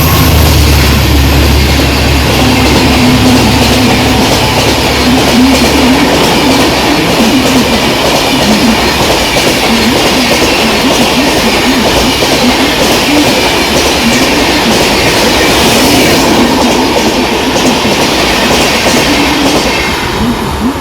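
A train running past close by, its wheels clattering over the rail joints in a continuous loud rumble. It eases off near the end.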